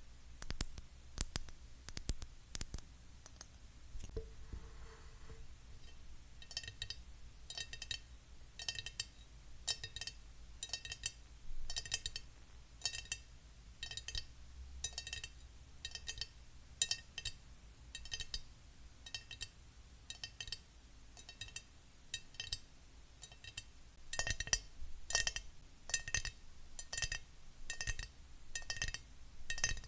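Fingernails tapping: a few seconds of dry clicking, then from about six seconds in, taps on a glass item that each ring briefly with a bright clink, about two taps a second.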